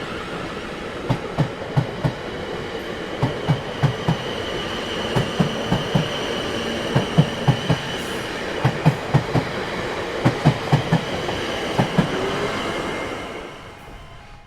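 Train wagons rolling past, their wheels clacking over rail joints in quick groups of knocks over a steady rumble, with a faint high wheel squeal in the middle. The sound fades away near the end.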